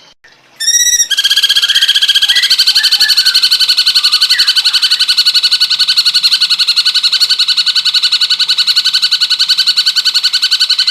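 Recorded cucak cungkok bird call played for song training. After a short pause it gives a brief curving note, then a long, very fast, even trill held at one pitch. Faint chirps of other birds sit behind the trill in its first few seconds.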